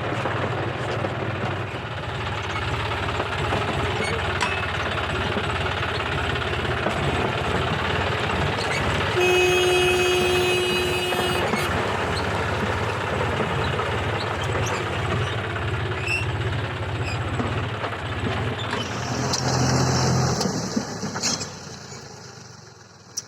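A John Deere 5050D tractor's diesel engine runs steadily. A vehicle horn sounds for about two seconds near the middle, and the engine sound fades away near the end.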